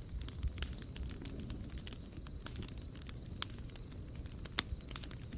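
Campfire of dry dead wood crackling, with scattered sharp pops and one louder snap about four and a half seconds in.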